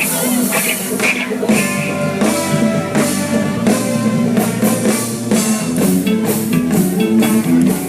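Band playing an instrumental passage with drum kit, guitar and a moving bass line, without singing.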